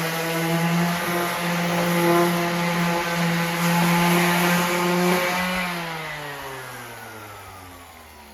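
An electric power tool's motor running at a steady pitch, then switched off about five and a half seconds in, its whine sinking in pitch and fading as it spins down.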